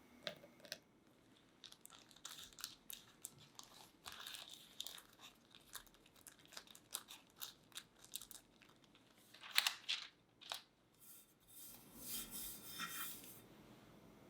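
A run of irregular crackles, crinkles and light clicks from hands handling kitchen materials, with a louder cluster just before the middle and a longer rustling stretch near the end.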